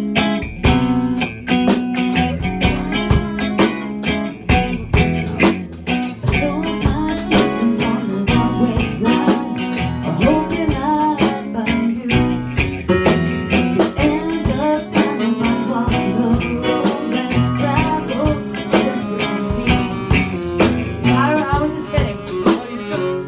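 Band playing a blues-rock song, with guitar over a drum kit keeping a steady beat.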